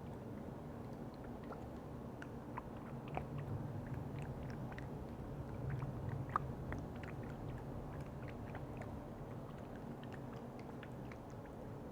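Close-miked ASMR handling of containers with lids and liquid: many small irregular clicks and wet crackles, a couple of sharper clicks about three and six seconds in, over a steady low hum.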